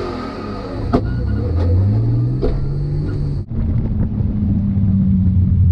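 BMW drift car's engine running, heard from inside the cabin, its pitch rising slowly over a couple of seconds with a few sharp clicks. After a cut about three and a half seconds in, a car engine idles steadily.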